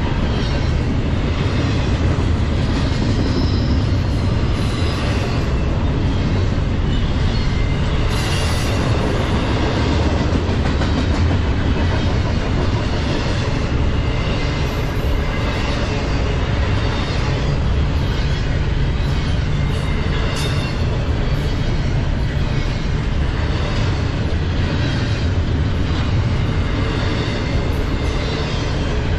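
Norfolk Southern double-stack intermodal freight train's well cars rolling past at close range: a steady, loud rumble of steel wheels on rail with a running clatter of the wheels.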